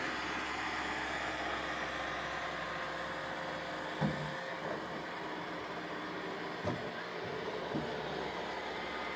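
Roomba robot vacuum cleaners running steadily, a continuous motor and brush hum. Three short knocks stand out, about four seconds in and near seven and eight seconds; the first is the loudest.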